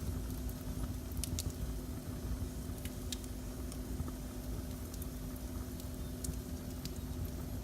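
Wood fire burning in a fireplace: scattered sharp crackles and pops, about one or two a second, over a steady low rumble of the flames and a faint steady hum.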